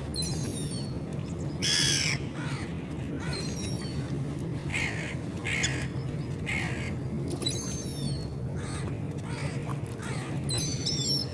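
Seagulls calling repeatedly: a series of short, high squealing cries, the loudest about two seconds in, over a steady low background rumble.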